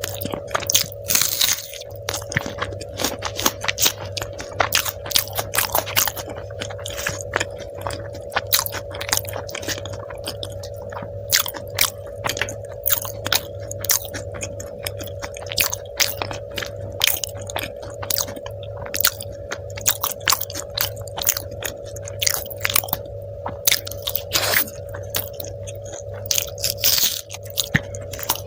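Close-miked eating: a person chewing and biting food, with frequent wet smacks and crisp clicks, over a steady background hum.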